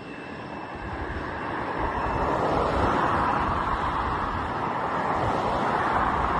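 Jet airliner's engines heard as a broad rushing roar that swells over the first two seconds and holds loud.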